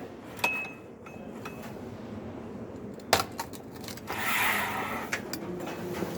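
Manual tile cutter: a metallic clink as the breaker is set on the scored tile, then about three seconds in a single sharp snap as the 10 mm porcelain stoneware tile breaks along the score under only light pressure on the handle. A brief scraping slide follows.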